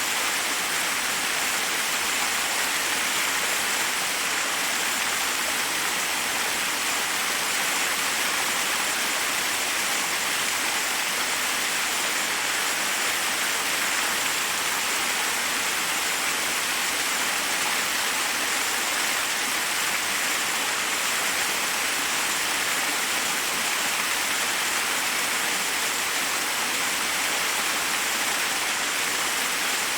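Forest waterfall: water cascading over rocks in a steady, even rush, heavy in the upper range.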